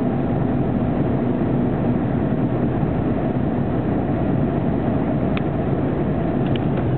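Steady road and engine noise of a car driving on the interstate, heard from inside the cabin. A few faint ticks come near the end.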